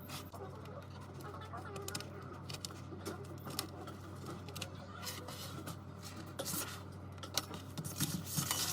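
Small clicks and scraping of hand tools working on a tablet's glass, over a steady low hum.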